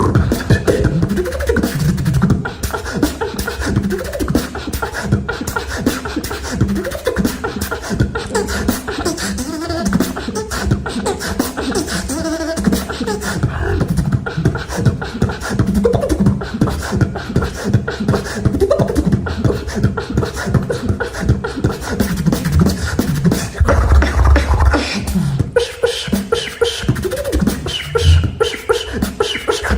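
Solo beatboxing: a fast, dense run of mouth-made kicks, snares and clicks over deep vocal bass, with an especially heavy bass hit about 24 seconds in.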